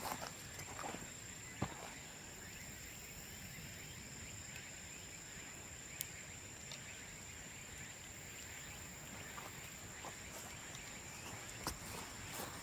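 Bamboo bonfire burning, with a few sharp crackles and pops spread through it over a steady high-pitched tone.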